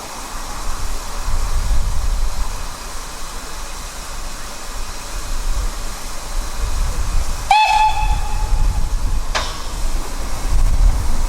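Steam locomotive's steady hiss over a low rumble, with one short whistle blast of about a second and a half near the end, followed by a sharp click.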